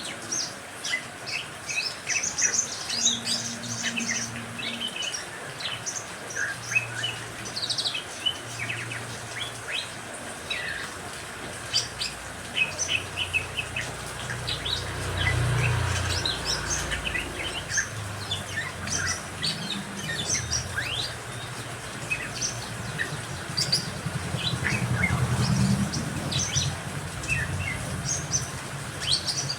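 Several songbirds chirping and calling, a busy mix of short chirps and quick trills overlapping throughout. A low hum swells up twice, around the middle and near the end.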